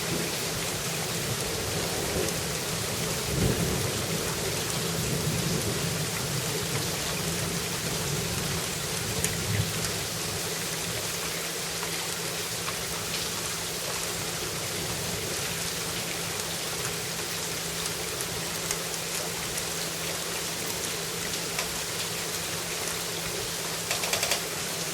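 Steady rain falling, with a low rumble of thunder in the first few seconds that dies away, and a few sharper taps near the end.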